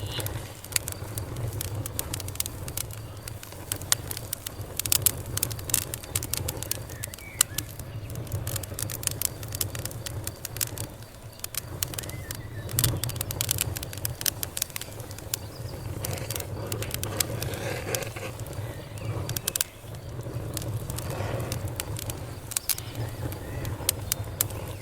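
Campfire crackling, with irregular sharp pops and snaps of burning wood over a low steady rumble of the flames.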